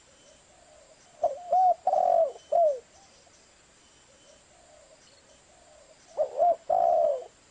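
Zebra dove (perkutut) cooing: two phrases of short, rippling coos, one about a second in and another near the end, each closing on a longer note that falls in pitch. Softer coos can be heard faintly between the phrases.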